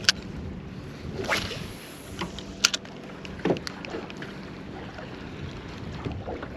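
Steady low hum with a few sharp clicks and knocks over a light background hiss, the sounds of fishing from a small boat.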